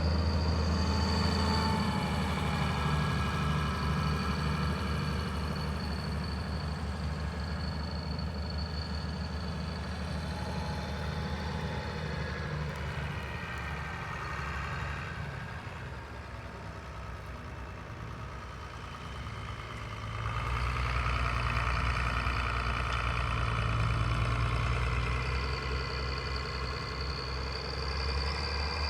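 Tractor engines running under load as tractors work the field, one fading through the middle and another growing louder from about two-thirds of the way in as it comes near.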